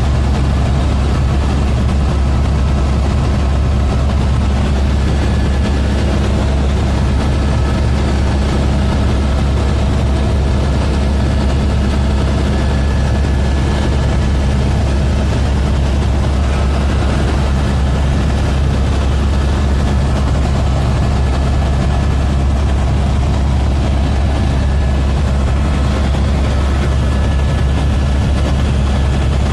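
Helicopter running with a loud, steady low drone that does not change.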